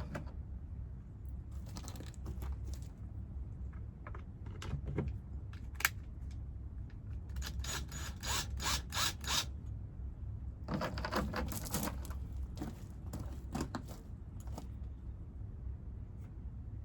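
Bursts of quick metallic clicking and rattling from hand tools and mounting hardware as the fuel tank is fitted back onto a gas-powered earth auger, with the fastest run of clicks about halfway through. A low, steady rumble lies underneath.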